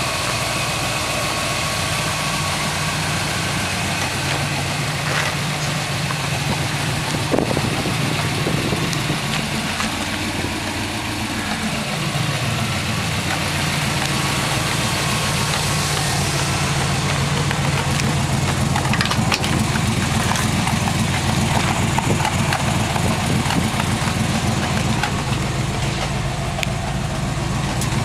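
Corvette V8 in a 1954 Chevy half-ton pickup idling steadily, with a pitch that dips and comes back up about ten seconds in.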